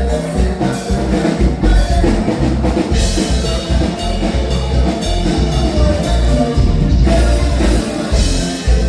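Live norteño band music with a steady drum and bass beat.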